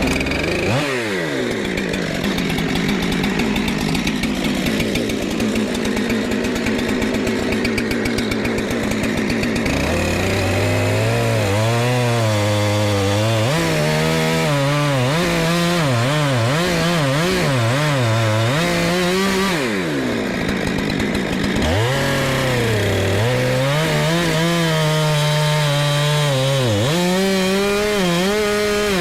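A gasoline chainsaw revs up and runs hard, cutting into a red oak log to cut out embedded nails. From about ten seconds in its engine speed keeps rising and falling as it works in the cut, with a deeper drop around twenty seconds in.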